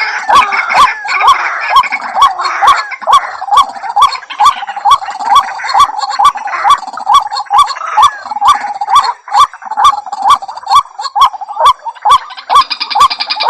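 White-breasted waterhen (ruak-ruak) calling: a fast, insistent series of short, upward-hooked notes, about three a second. The calling is busier and more layered over roughly the first half.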